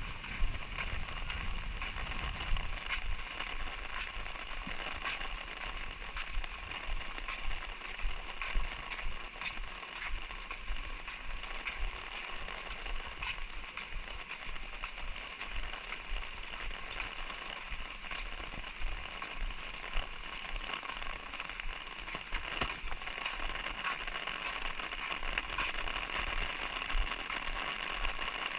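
Light rain falling steadily, a constant hiss with many scattered ticks of drops hitting surfaces.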